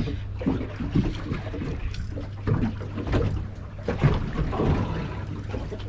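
Small boat on the water: irregular knocks and splashes over a steady low hum, with some wind on the microphone.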